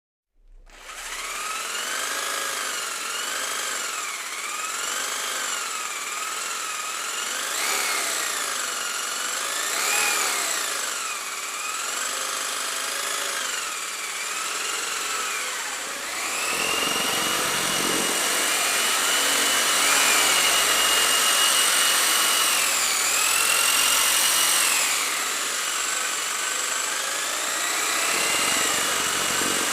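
A small electric motor whining, its pitch repeatedly rising and falling as its speed changes under load, then holding steadier and higher in the second half with brief dips. The sound starts about half a second in.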